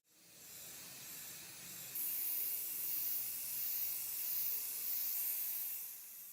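A steady spraying hiss that gets louder about two seconds in and holds until the end.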